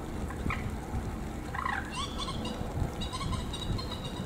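Bird calls: several short pitched calls in the first two seconds, then a run of high thin notes near the end, over a steady low rush of rain and wind.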